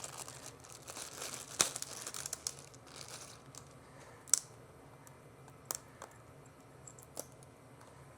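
Packaging wrap crinkling and tearing as it is pulled off a new bench grinder, with a few sharp clicks and knocks spread through it.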